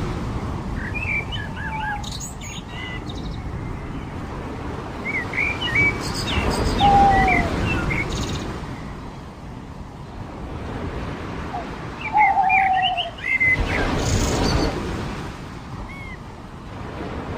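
Birds chirping in short clusters of quick high notes, with a lower falling call three times, over a steady wash of surf and wind that swells about a third of the way in and again near the end.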